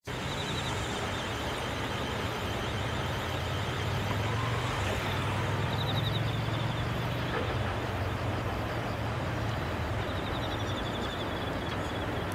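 Steady outdoor noise: an even rush with a constant low rumble underneath, and faint repeated chirps high above it.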